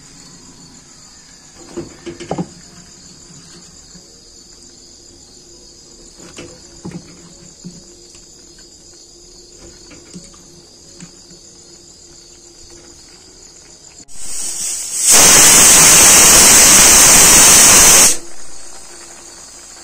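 Vegetables frying in a steel kadai, with a few light knocks and a steady chirring of crickets in the background. About fifteen seconds in, a loud even hiss lasts some three seconds, then stops.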